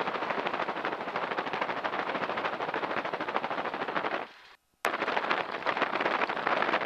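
Pratt & Whitney R-1340 nine-cylinder radial engine of a T-6 Texan running at taxi power, a rapid, even pulsing. The sound cuts out for about half a second a little past four seconds in and comes back with a click.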